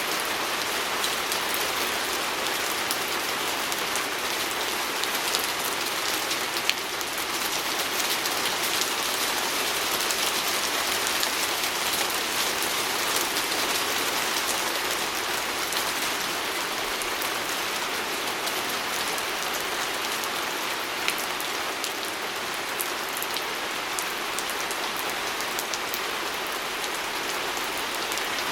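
Steady rain pattering on a window, a dense even hiss of drops with many small individual drop ticks.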